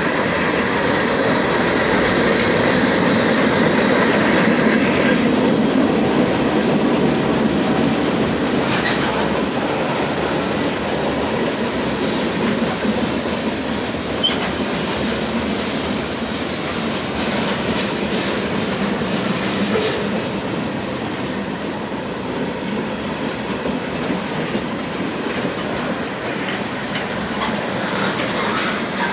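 Freight train rolling steadily past, its car wheels running on the rails with scattered clicks over the joints. A faint high wheel squeal comes through in the first few seconds.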